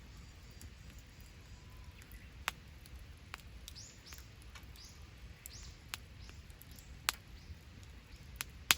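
Wood campfire crackling, with a handful of sharp pops, the loudest near the end. A bird chirps a quick series of short high calls in the middle.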